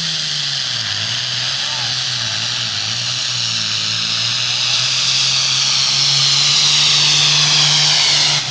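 Pulling vehicle's engine running hard and loud, with a high turbo-like whine over the engine note, building a little before cutting off suddenly near the end.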